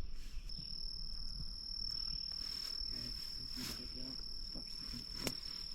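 A steady, high-pitched insect trill, one unbroken tone, cricket-like, that comes in about half a second in. Faint rustling of the berry bushes is under it, with one sharp click near the end.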